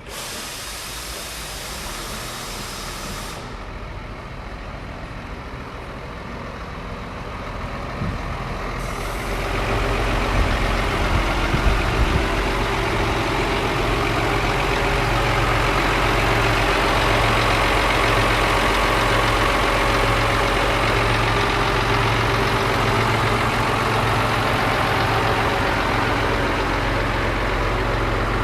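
Scania P114 340 lorry's 11-litre six-cylinder diesel running steadily, quieter for the first few seconds and then louder from about ten seconds in.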